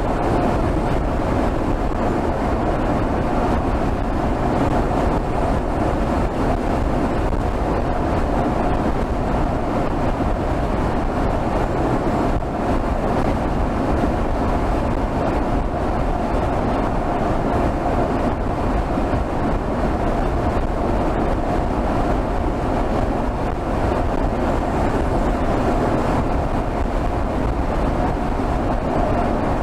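Mercedes GLS 450's 3.0-litre turbocharged inline-six engine running steadily at highway cruising speed, heard from under the hood, with constant road and wind noise mixed in.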